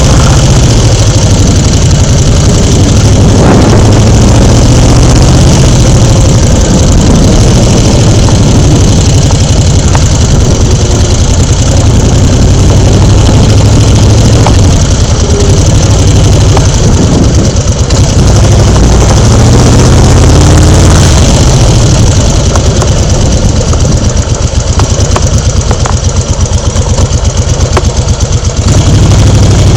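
Engine running steadily and loudly close to the microphone, with a strong low rumble.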